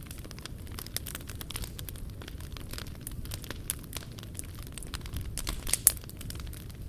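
Wood fire crackling with dense, irregular pops over a low steady rumble of the flames. One sharper, louder pop comes about six seconds in.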